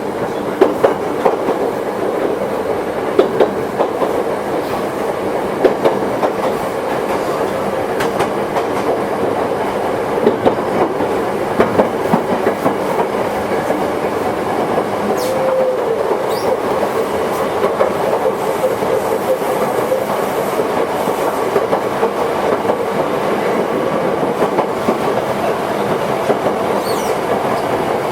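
Toyohashi Railway 1800-series electric train (a former Tokyu car) running along the line. The wheels rumble steadily on the rails, with sharp clicks over rail joints every second or two during the first half.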